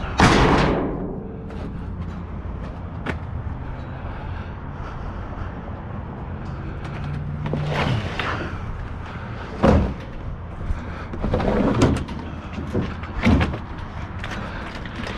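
Scrap metal being handled and struck: a loud bang at the start, then several clanks and knocks a couple of seconds apart over a steady low hum.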